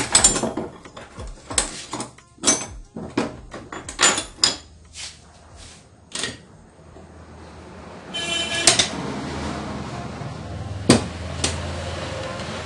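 Rapid, irregular metallic clicks and knocks as sewing-machine parts are handled and worked on during disassembly. After about eight seconds they give way to a steadier background with a low hum and two sharp clicks.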